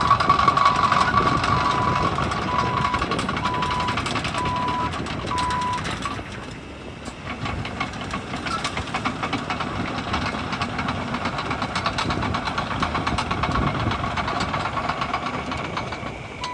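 A heavy earth-moving machine's diesel engine running with a steady rattling clatter. Over it, a backup alarm beeps a little under once a second, then stops about six seconds in as the machine stops reversing.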